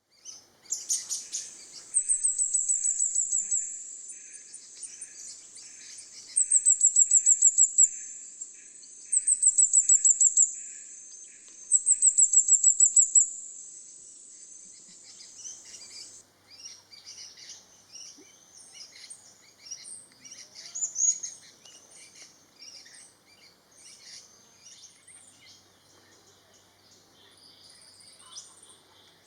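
Orange-bellied flowerpecker calling: four loud bursts of rapid, very high-pitched ticking trills, each one or two seconds long. After them come fainter, scattered high chips and buzzy notes.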